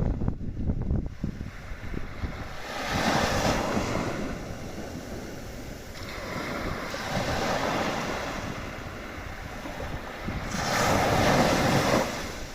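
Sea waves washing in and receding in slow surges, one about every four seconds, with wind buffeting the microphone.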